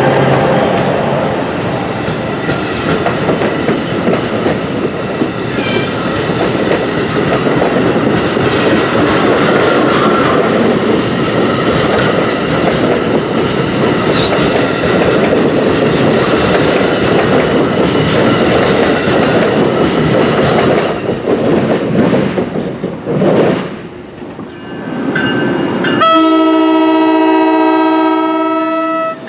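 NJ Transit multilevel passenger coaches pass close by, with the steady rumble and clatter of wheels on the rails; the noise drops away as the last car clears at about 23 seconds. About 26 seconds in, an approaching train sounds its multi-tone horn for about three seconds.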